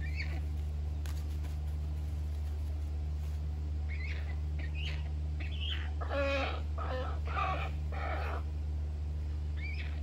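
Birds calling over a steady low hum: a few short, high rising chirps, then about four louder, harsher calls in quick succession a little past the middle.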